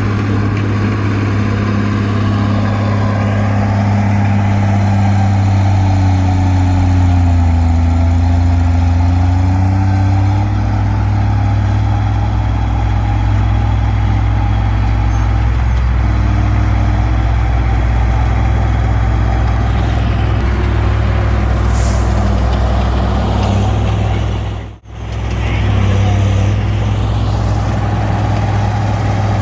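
Komatsu D20P bulldozer's diesel engine running steadily. Its note sags and then recovers about six to ten seconds in. The sound cuts out for a split second near the end.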